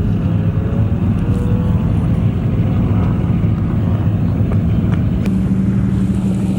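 An engine running steadily with a low drone, a stronger low note coming in about five seconds in.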